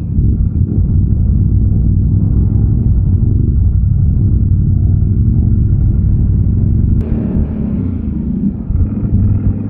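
ATV engine running with a steady low rumble, with a sharp click and a change in the sound about seven seconds in.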